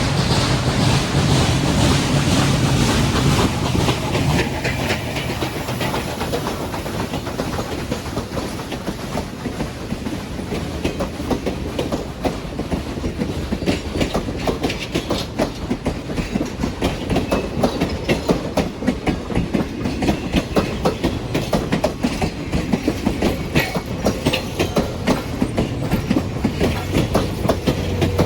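A train rolling past, its railcar wheels clicking and clattering over the rail joints in a fast, steady rhythm. A low steady hum in the first few seconds gives way to the wheel clatter.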